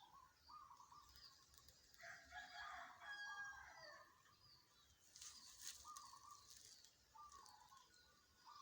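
A rooster crows once, faintly, about two seconds in. Around it are short repeated calls and high chirping from other birds.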